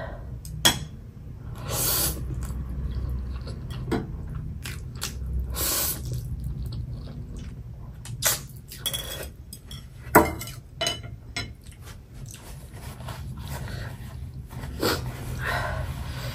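Close-up mouth sounds of a person eating chapagetti noodles: chewing, with a few sharp clicks of chopsticks against a plate, the loudest about ten seconds in.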